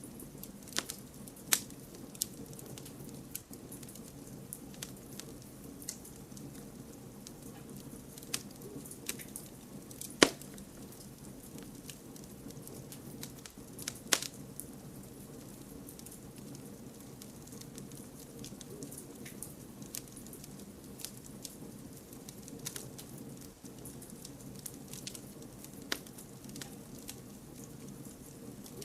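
Campfire burning: irregular sharp crackles and pops over a soft steady hiss, with a few louder pops, about one and a half, ten and fourteen seconds in.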